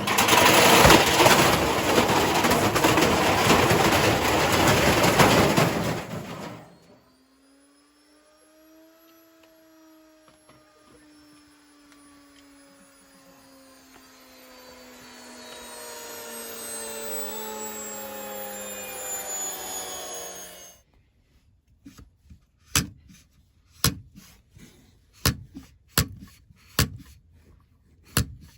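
Indesit IWC61651 washing machine running with a loud rushing noise that cuts off after about six seconds, then a whine that falls slowly in pitch for about fourteen seconds as the drum and motor coast down. After that come a string of sharp knocks.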